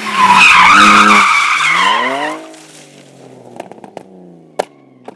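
A car's tyres squealing loudly for about two seconds while its engine revs up, then the squeal stops and the engine runs quieter under a few sharp knocks, one louder than the rest near the end.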